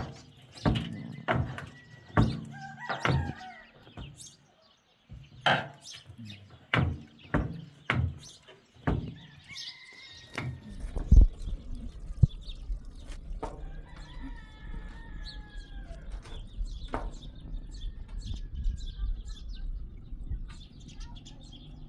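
A rooster crowing, one long call past the middle of the stretch, over a low steady rumble. Before it comes a run of sharp, heavy knocks, about one or two a second.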